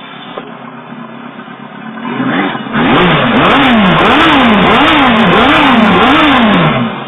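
Yamaha YZF1000 inline-four motorcycle engine running through a Yoshimura exhaust with its dB killer insert fitted. It idles, then is revved in a run of five or six quick throttle blips, the pitch rising and falling each time, and drops back to idle near the end.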